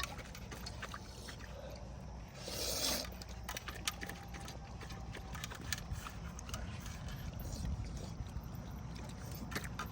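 Small clicks and taps of utensils against a bowl while eating, scattered irregularly, with a short swishing rustle about two and a half seconds in. A steady low rumble runs underneath.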